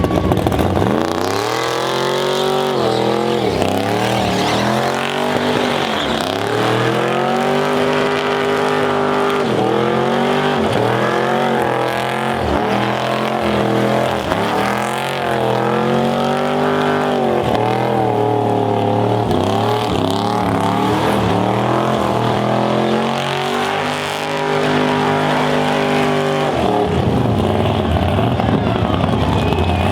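Old Chevy van's engine revved hard again and again during a burnout, its pitch climbing and dropping every second or two over tyre noise, then easing off near the end.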